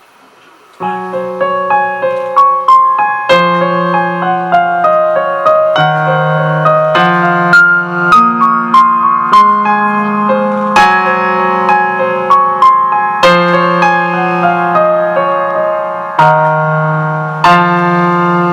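Electric piano playing a song intro, entering about a second in: broken chords step up and down over held low notes.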